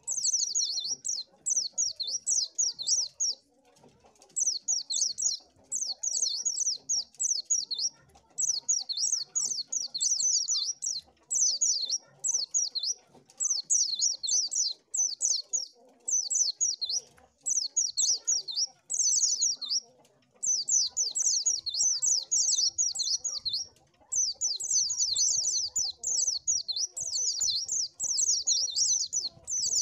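White-eye (pleci) singing: rapid, high-pitched twittering phrases of quick down-slurred notes, each lasting a second or two with short pauses between.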